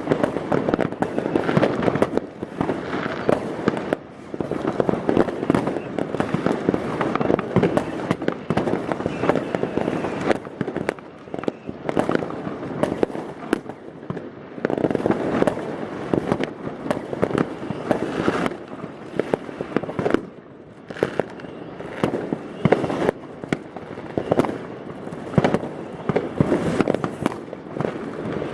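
New Year's Eve fireworks going off in dense, continuous volleys: many rockets and firecrackers banging and crackling at once, overlapping with hardly a gap.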